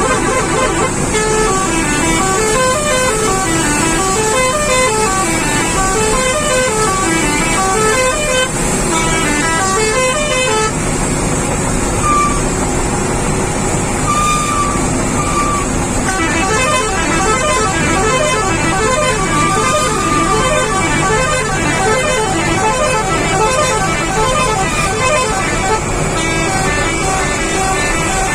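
A truck's multi-tone musical horn playing a fast repeating tune of short stepped notes, with a few longer held notes in the middle, over a running engine.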